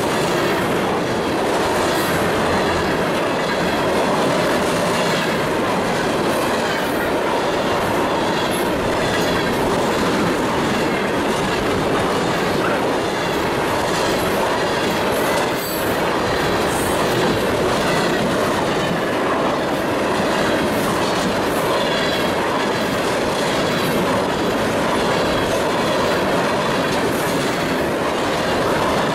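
Freight train of railroad tank cars rolling past close by: a steady, loud rumble and rattle of steel wheels on rail, with repeated wheel clacks.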